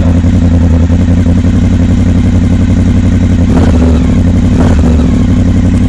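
Honda VFR 750's V4 engine running at idle on its first start after five months standing, a steady note with two brief rises about three and a half and four and a half seconds in.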